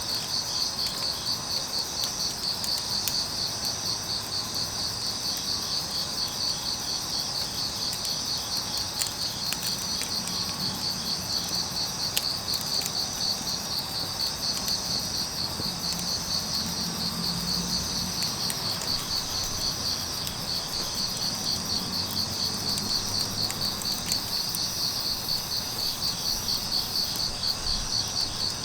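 Grass insects calling steadily in a dense, rapid trill, with a second insect's pulsed call repeating about once a second above it. A few faint crackles from the burning wood fire sound now and then.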